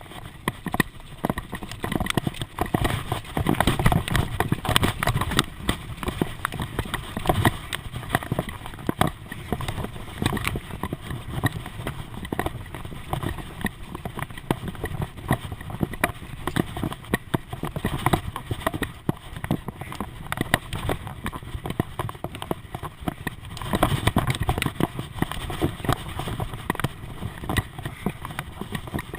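Ride noise from a bicycle: continuous irregular clattering and knocking over a rumble of wind and tyres. The rumble grows heavier a few seconds in and again near the end.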